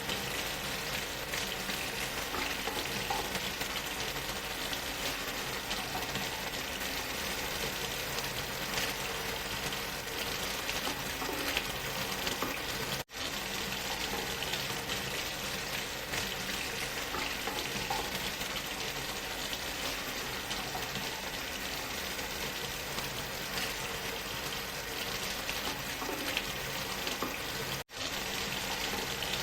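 Waterfall sound mixed with white noise: a steady, dense rushing hiss at an even level. It drops out for an instant twice, about 13 and 28 seconds in.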